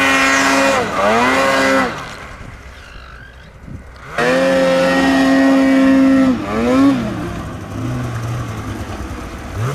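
Snowmobile engine revving hard in short throttle bursts, then held at high revs for about two seconds before the throttle is let off, a quick blip, and a lower steady run near the end.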